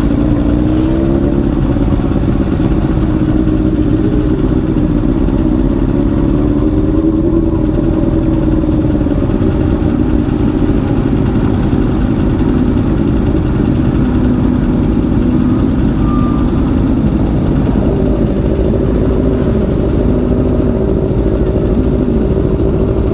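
Honda VFR V4 motorcycle engine running while riding, its pitch slowly rising and falling with the throttle over a steady low rush.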